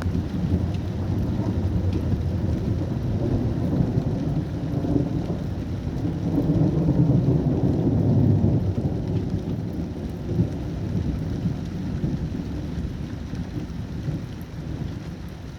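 Rolling thunder: a long, low rumble that builds to its loudest about seven to eight seconds in and then slowly fades, with rain falling throughout.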